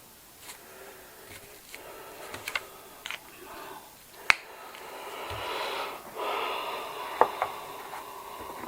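Cash register keys and parts being pressed and handled: scattered sharp clicks, the loudest about four seconds in and a close pair near the end, over soft rustling.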